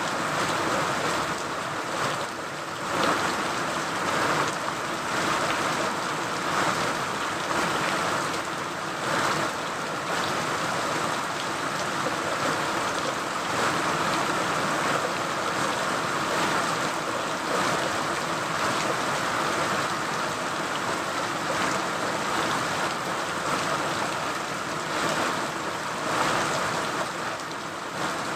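Steady rain falling: a continuous even hiss with many separate small drop hits through it.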